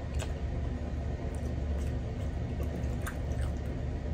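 Close-miked chewing with soft wet mouth clicks and squishes, over a steady low hum.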